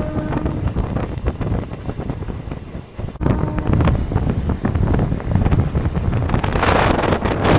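Wind buffeting the microphone over an outdoor background din, with a deep rumble; a cut about three seconds in, after which it is louder.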